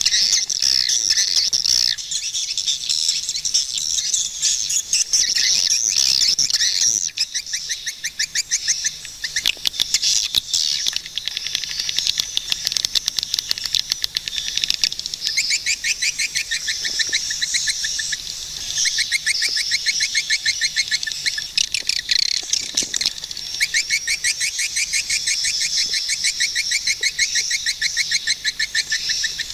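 Swiftlets chirping in fast, high-pitched twittering trains that overlap without pause.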